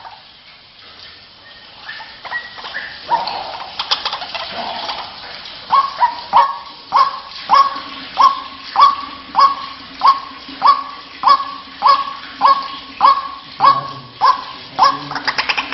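White-breasted waterhen calling: scattered notes at first, then from about six seconds in a steady run of sharp, repeated 'ruak' notes, roughly one and a half a second.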